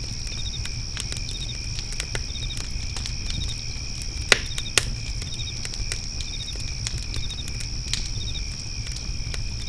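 Wood fire crackling with scattered sharp pops, two louder pops a little past four seconds in, over steady cricket chirping with short chirps about once a second and a low rumble.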